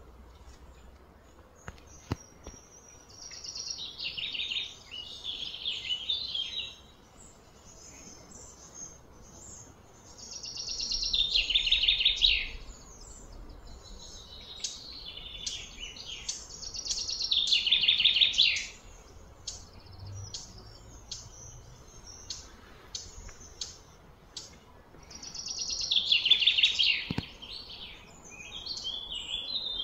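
Birds singing: bursts of high, rapid chirping about four or five times, each phrase two to three seconds long, the loudest swelling up and stopping abruptly.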